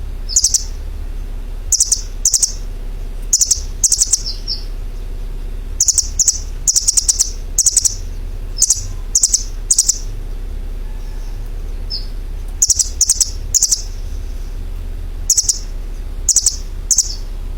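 A bird chirping in short, high-pitched notes, mostly in quick runs of two to four with pauses between, over a steady low hum.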